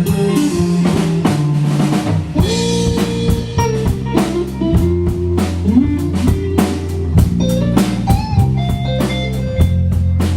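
Live rock band playing an instrumental break: drum kit keeping a steady beat with bass underneath, and a guitar melody with bent, sliding notes.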